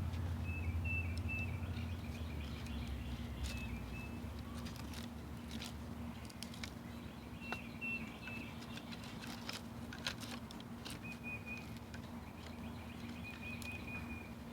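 Wooden sticks clicking and knocking as they are handled and stacked into a log-cabin trap frame. Behind them a bird chirps in short, repeated phrases, with a faint steady hum and a low rumble that fades in the first few seconds.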